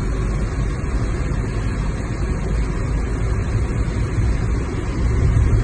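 Car driving through deep snow and slush: a steady low rumble of engine and tyre noise with no break.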